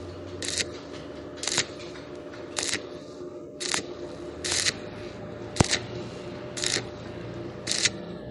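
Welding arc struck in short, even bursts about once a second, each a brief crackling hiss: stitch welding on thin steel box tubing, laying the bead in pulses to bridge a gap without burning through. A low steady hum runs underneath, with one sharp click about halfway through.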